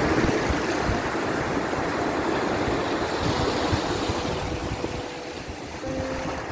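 Sea waves washing in and breaking, a steady surf rush with low rumble that swells and eases.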